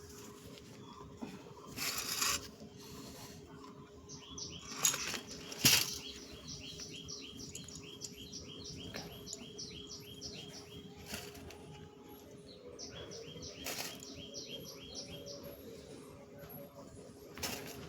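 A bird calls a long series of short, quick falling chirps, about four a second, pausing for a couple of seconds after about eleven seconds and then resuming. A few sharp knocks fall in between, the loudest about six seconds in, over a steady low hum.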